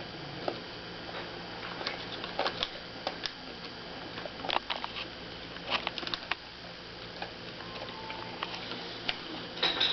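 A child chewing crunchy granola nut clusters with his mouth near the microphone: irregular crunches and clicks, with a denser cluster near the end.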